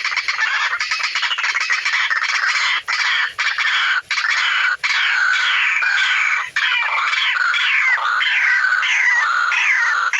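White-breasted waterhen calls, dense and loud, turning into a run of repeated falling notes in the second half, cut off suddenly at the very end.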